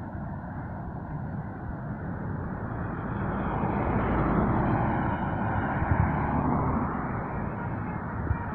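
A truck passing on the road. Its engine and tyre noise grows louder to a peak about halfway through, then eases off.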